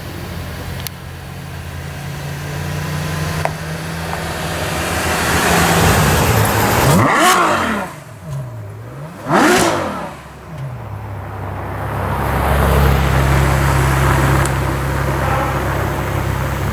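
Supercar engines running at low revs as cars drive out, with two sharp throttle blips about seven and nine and a half seconds in, the engine note jumping up and dropping back each time.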